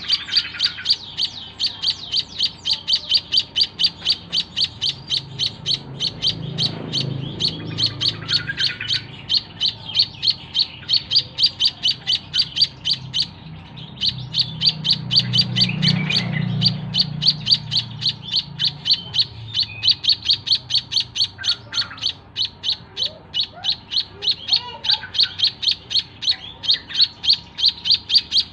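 White-headed munia calling: a fast, steady run of short high chirps, about four to five a second, with one brief pause midway. A low rumble swells in the background twice.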